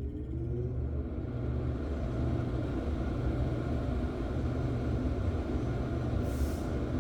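Loren Cook ceiling exhaust fan on its original first-generation motor, finishing its spin-up with a rising whine in the first second, then running at full speed with a steady hum and rush of air. A brief hiss about six seconds in.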